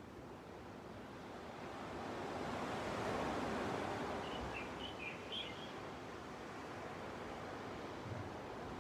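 Gentle ocean waves washing onto a beach, swelling to a peak about three seconds in and then easing off. A small bird gives a few short, high chirps around the middle.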